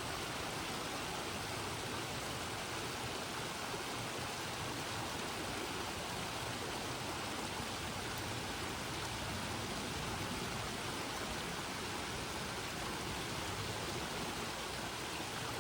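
Steady rush of water from a small waterfall, an even hiss with no breaks.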